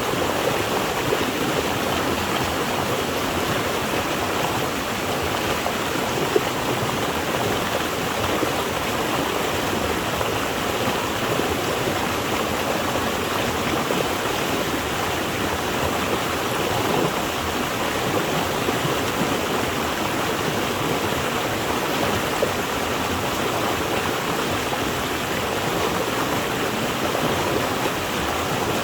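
Water flowing steadily in a stream or small waterfall, an even rushing and splashing.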